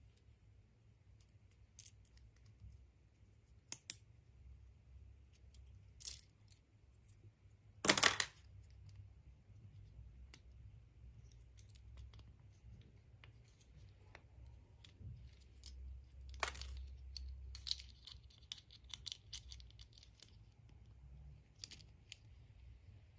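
Hands handling and unwrapping packaging: scattered small clicks and taps, with a short loud crackle about eight seconds in, another near the middle, and a stretch of rustling after it.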